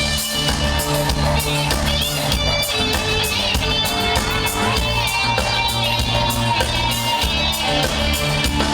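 Live band music, an instrumental passage with guitar over a steady bass.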